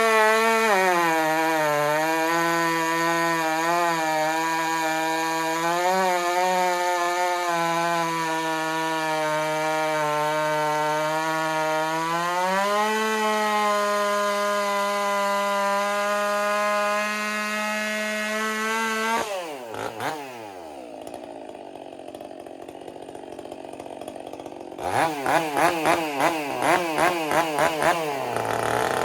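Stihl 400 two-stroke chainsaw fitted with an Egan Straight Shot aftermarket muffler, running at high revs with the pitch sagging and wavering as if under load in a cut. About twelve seconds in it rises to a higher, steady pitch. It then drops to idle, is blipped on the throttle about eight times in quick succession, and revs up again at the end. The owner feels the saw has lost torque with this muffler.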